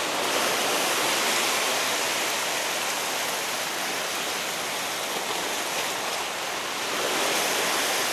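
Sea surf washing against shore rocks: a steady rushing noise that stays even throughout.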